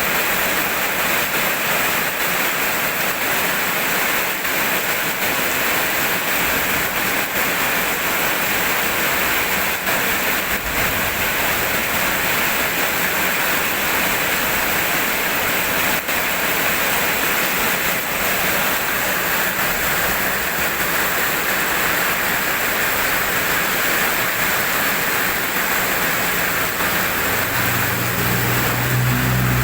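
Steady rain falling, an even hiss with faint scattered drop ticks. A low rumble comes in near the end.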